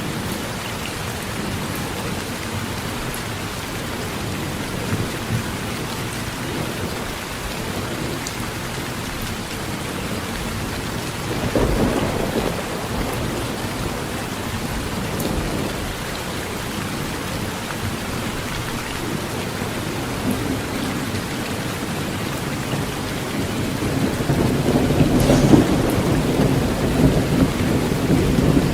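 Heavy rain drumming steadily on a tin roof, with thunder rumbling: one roll about twelve seconds in, and a louder one building near the end.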